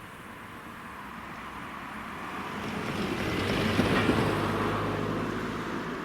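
Train passing by, its rushing noise and low hum swelling to a peak about four seconds in and then fading away.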